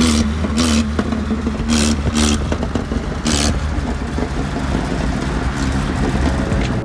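Volvo engine running through a homemade scrap-built exhaust, revved several times so its note rises and falls over a steady low drone.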